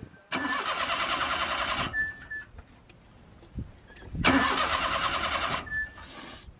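Car engine cranked on its starter motor twice, about a second and a half each time, with a fast rhythmic churn, and each time it stops without the engine catching. A short high tone follows each attempt.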